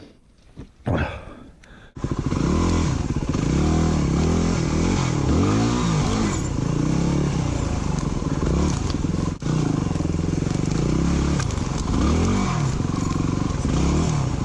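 Dirt bike engine running hard on a woods trail, revving up and down repeatedly as the bike is ridden. The engine comes in suddenly about two seconds in, and there is one brief drop in the revs in the middle.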